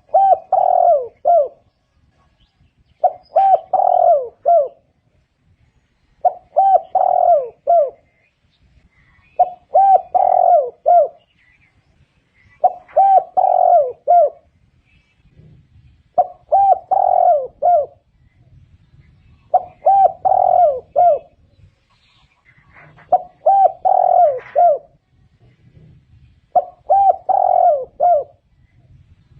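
Spotted dove singing its cooing song: a short phrase of three or four low coos, repeated at an even pace about every three seconds.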